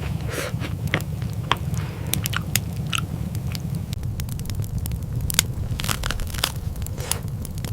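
Irregular sharp crackles and crunches over a steady low rumble.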